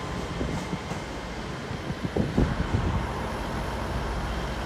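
A Class 800 IET bi-mode train departing on its diesel engines: a steady low rumble, louder for a moment about two seconds in.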